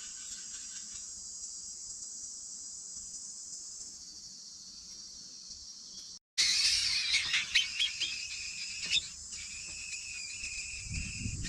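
Steady, high-pitched outdoor insect chorus of crickets or cicadas. About six seconds in it cuts out for a moment, and then returns louder with scattered chirps and clicks and a held high note.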